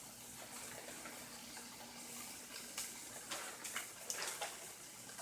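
Tofu sizzling faintly in a frying pan: a steady soft hiss, with a few small clicks in the middle.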